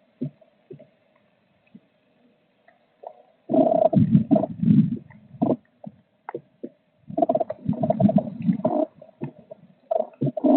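Scratching and rustling inside a blue tit nest box as the bird moves about in the nest material: two bursts of a couple of seconds each, with scattered taps and clicks between them.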